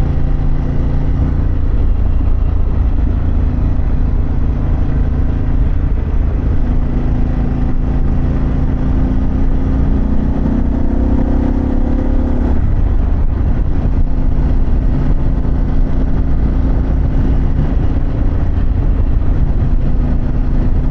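Harley-Davidson Pan America's V-twin engine running under way, with a steady rush of wind and road noise. Past the middle the engine note climbs for several seconds under throttle, then drops abruptly.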